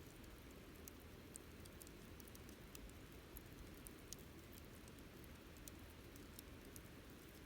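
Wood campfire burning faintly, with scattered small crackles and pops over a low steady hiss.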